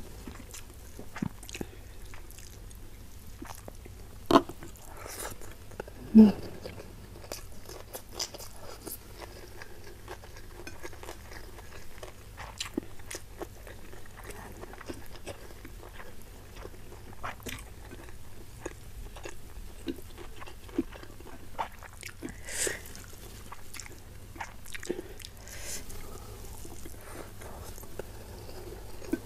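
Close-miked chewing and biting of spicy stir-fried salted fish with rice, eaten by hand: a run of small wet mouth clicks and crunches, with a couple of louder sharp ones about four and six seconds in.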